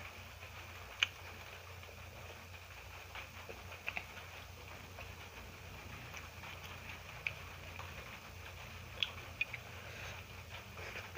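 A person eating: soft chewing and mouth sounds with a few sharp clicks scattered through, over a faint steady low hum.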